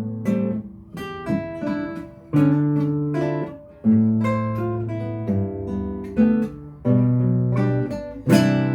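Acoustic guitar music: plucked and strummed chords that ring and fade between strikes.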